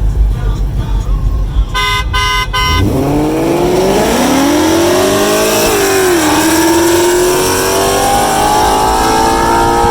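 A car horn beeps three times quickly, then a V8 engine pulls hard under heavy throttle. Its pitch climbs steeply through one gear, drops at a gear change about six seconds in, and climbs again steadily in the next gear.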